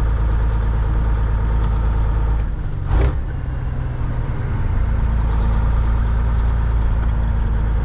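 Cat 3406E inline-six diesel of a Freightliner FLD120, heard from inside the cab, running steadily under load. About three seconds in, the engine note eases off with one short sharp sound, then comes back on as the truck keeps rolling.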